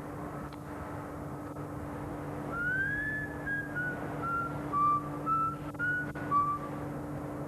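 A person whistling a tune, a string of clear sliding notes starting about two and a half seconds in, over a steady low hum.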